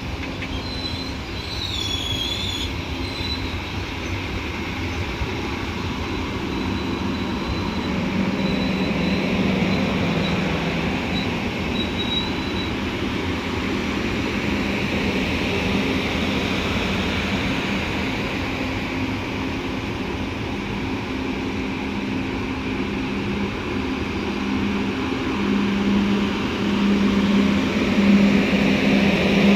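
Frecciarossa ETR500 high-speed electric trainset rolling slowly past the platform: a steady rumble with a low hum from the train that comes and goes and grows stronger near the end. Thin high squealing tones sound in the first few seconds.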